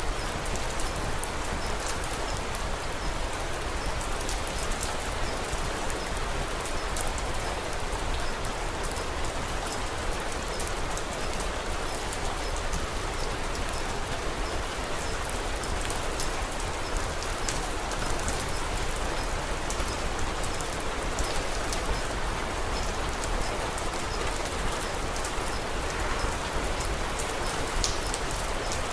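Steady rain falling, with small sharp crackles from a wood fire scattered through it.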